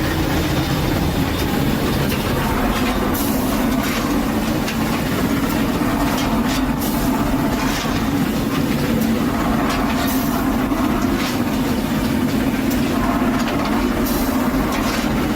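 Train running along the track: a steady, loud rumble with scattered sharp clicks from the wheels and rails.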